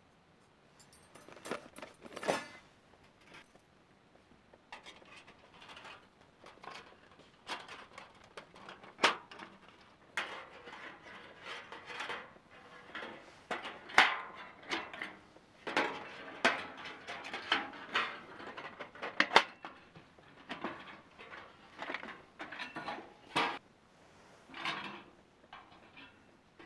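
Irregular clattering, clinking and knocking of objects being handled, with a few sharper knocks around the middle.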